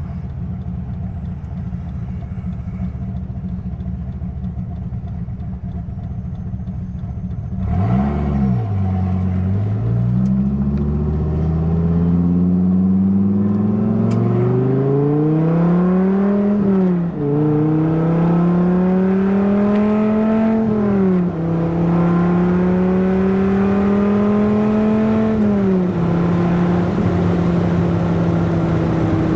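1997 Dodge Viper GTS's 8.0-litre V10 exhaust while driving: steady road noise for several seconds, then the engine pulls hard, its pitch rising through the gears with three upshifts, each a sudden drop in pitch, before settling to a steady cruise.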